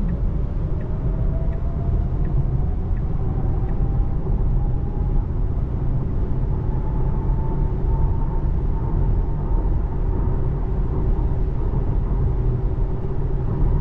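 Inside a 2024 Tesla Model 3 accelerating on a wet road: steady road and tyre rumble, with the electric drive motor's whine rising in pitch over about eight seconds and then holding level. Faint regular ticks sound in the first few seconds.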